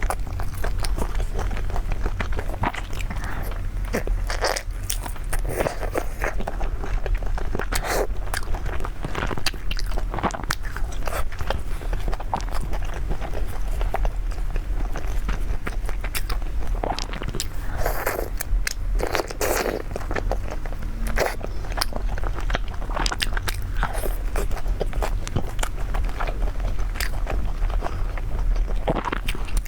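A person biting and chewing food close to the microphone, with irregular crunchy bites and mouth sounds over a steady low hum.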